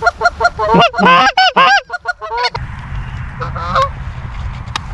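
Geese honking and clucking in quick, repeated calls for the first two and a half seconds, then a few fainter honks over a low steady rumble.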